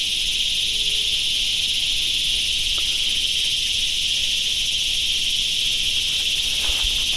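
Dense, unbroken chorus of insects at dusk, a steady high-pitched drone with no breaks.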